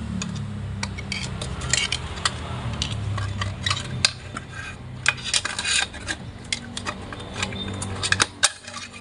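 Screwdriver tip prying and scraping at the center support's retaining snap ring inside a 5R55W automatic transmission case: irregular metal-on-metal clicks, clinks and scrapes over a steady low hum.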